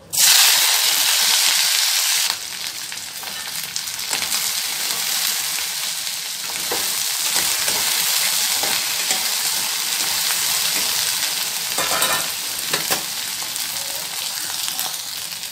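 Chopped okra dropped into hot oil in a kadhai hisses loudly as it hits. After about two seconds it settles into a steady sizzle as it fries, with short scrapes and clicks from a spatula stirring it.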